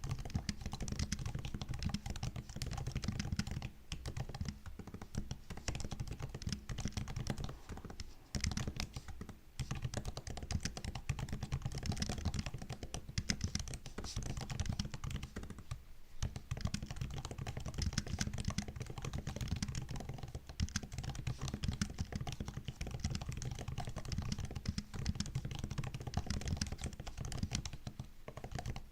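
Continuous typing on a MacBook's built-in keyboard: a dense run of key clicks and taps, with a few brief pauses.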